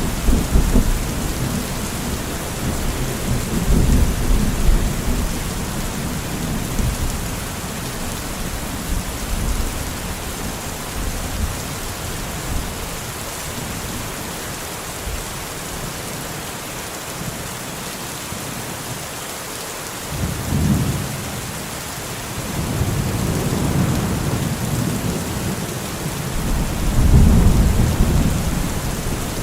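Steady rain falling, with low rolling thunder rumbles that come and go: one fading out at the start, a quieter lull in the middle, then rumbles building again from about two-thirds of the way through, loudest near the end.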